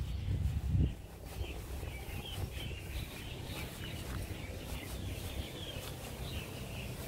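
Small birds chirping repeatedly in short high calls over a steady low rumble, which is louder for about the first second.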